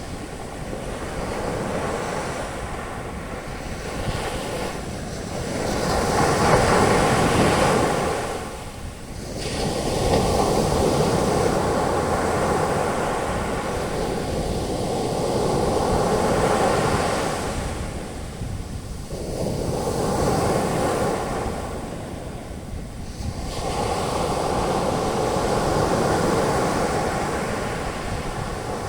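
Sea waves breaking and their foam washing up the beach as a continuous surf hiss that swells and eases slowly, with short lulls about a third of the way in and twice in the last third.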